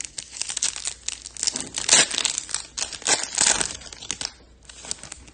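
A Topps Chrome trading card pack wrapper being torn open and crinkled: a dense crackling that dies down about four seconds in.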